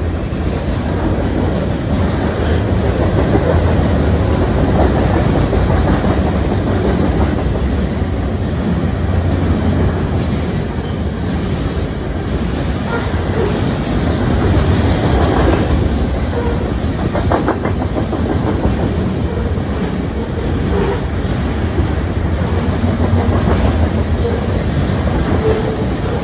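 Train rolling past on the track: a steady rumble of railcars with wheels clacking over rail joints, and a few sharper clicks in the middle.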